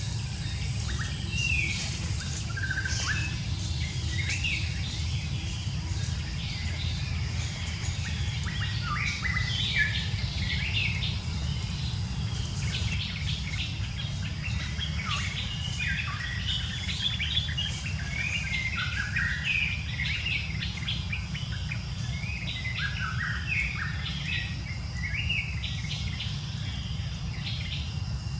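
Birds chirping and calling, many short high notes and quick glides, busiest from about a third of the way in, over a steady low outdoor rumble and a faint steady insect drone.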